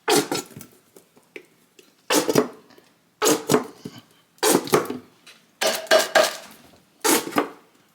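A plastic bottle of barbecue sauce being emptied into a crock pot: about six sharp knocks and splutters, roughly one a second.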